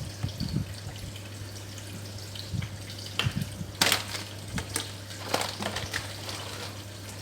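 Water in a small container being splashed and dripped, with a few sharper splashes around the middle. A steady low hum runs underneath.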